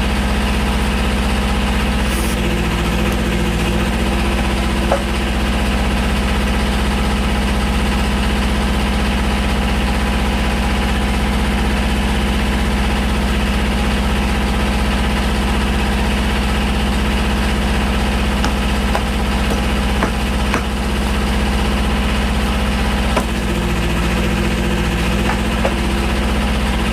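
Tractor engine running steadily as it drives the hydraulic cylinder that pushes a log through an eight-way splitting wedge, with a few faint sharp cracks as the wood splits.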